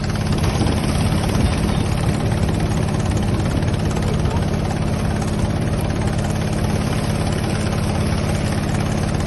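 An engine on a bagang lift-net fishing boat running steadily at an even speed.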